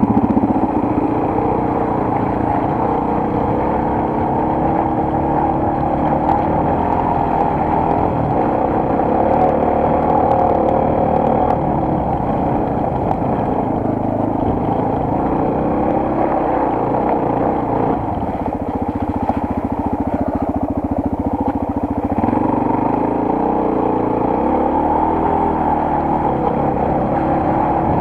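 Single-cylinder four-stroke enduro motorcycle engine running while riding. The note eases off about two-thirds of the way through, then picks up again.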